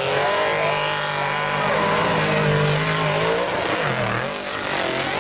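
Off-road race truck engine running hard, its pitch rising and falling as the throttle is worked, with a brief dip about four seconds in before it climbs again.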